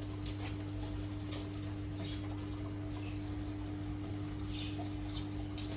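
Reef aquarium equipment running: a steady low hum with a thin steady tone above it, and scattered soft clicks and ticks at irregular moments.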